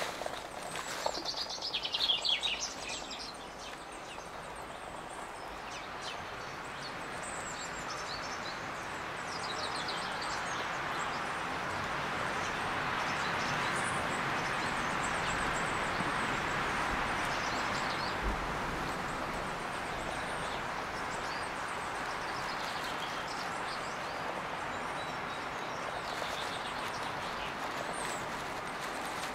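Outdoor ambience of birds chirping and calling in short high phrases over a steady rushing hiss, with the loudest calls about two seconds in.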